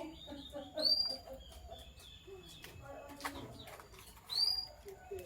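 Lovebirds chirping: two loud, short, high chirps, about a second in and near the end, among fainter chirps and lower twittering.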